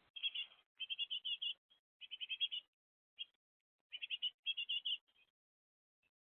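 A small songbird calling in quick runs of high chirps, grouped in short bursts with brief gaps between them.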